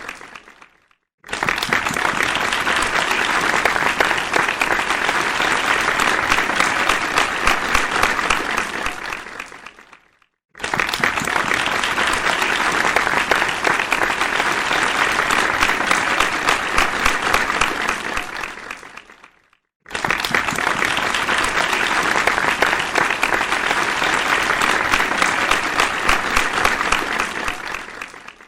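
Crowd applause, many hands clapping, in three separate rounds: each starts suddenly, holds for several seconds and fades away, with a brief silence between rounds.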